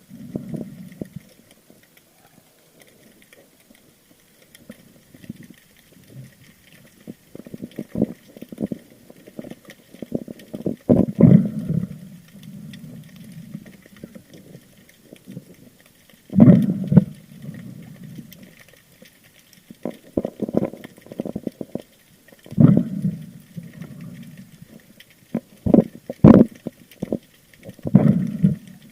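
Muffled water sounds picked up underwater: low bursts of rushing and gurgling with sharp knocks, recurring every five or six seconds.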